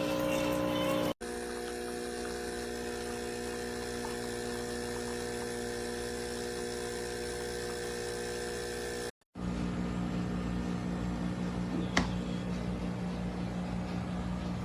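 Espresso machine's pump running with a steady, buzzing hum, broken by two sudden cuts (about a second in and about nine seconds in), with a single sharp click about twelve seconds in.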